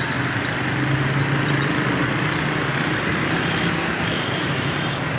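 Busy street traffic: a steady mix of vehicle engines running, with a low engine hum throughout.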